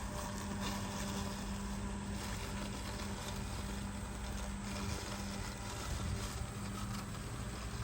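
Mammotion Luba 2 robotic lawnmower running as it mows, its electric motors giving a steady low hum.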